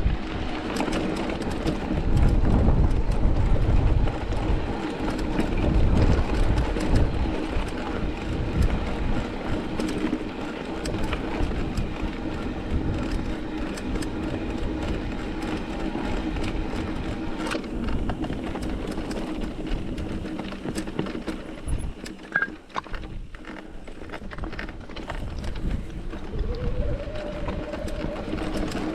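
Mountain bike rolling over a rocky trail: tyres rumbling and the bike rattling and clattering over rock, with a steady hum throughout and many small knocks.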